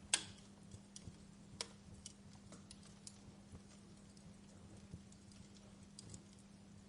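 Wood fire crackling: irregular pops and snaps, the loudest a sharp pop right at the start, over a faint steady low hum.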